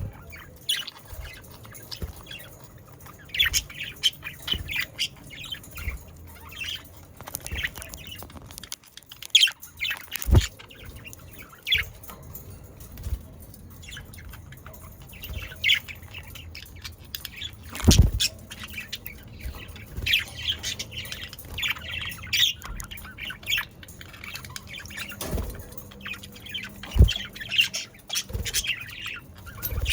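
A flock of budgerigars chattering and chirping with short squawks mixed in, the dense warbling chatter typical of budgies. A few dull thumps cut through, the loudest about eighteen seconds in.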